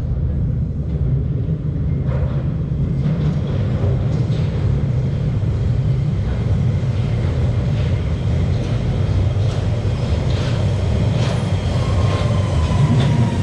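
London Underground Central Line tube train rumbling at the platform, with faint clicks and squeals and a falling whine near the end.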